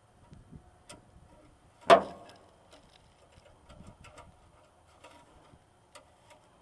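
Light metal clicks and ticks from handling parts under a truck's hood, with one sharp clank about two seconds in.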